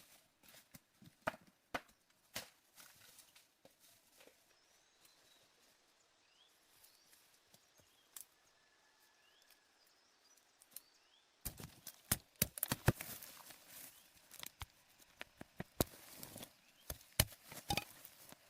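Irregular sharp knocks and clicks, scattered at first, then a quiet stretch with faint short chirps, then a dense, louder run of knocks starting about two-thirds of the way in.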